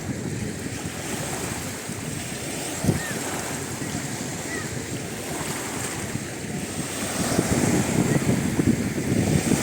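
Wind buffeting the microphone over a steady wash of surf and sea, the gusts growing stronger near the end.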